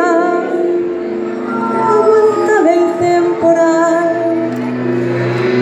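A woman singing a slow melody in long held notes over instrumental accompaniment.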